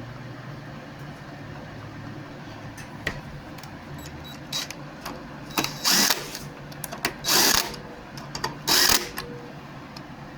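Screws being tightened down on a lawnmower carburetor: scattered clicks, then three short, loud rattling bursts about a second and a half apart, over a steady low hum.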